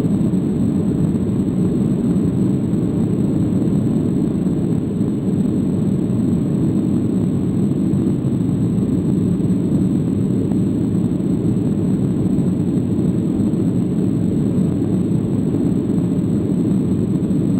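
Boeing 737 in flight: a steady, low roar of jet engines and rushing air, unchanging throughout.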